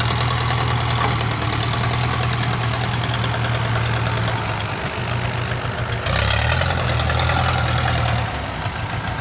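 Diesel dump-truck engine running with a rapid, even clatter. About six seconds in the sound changes, with more high-end noise, then drops in loudness near the end.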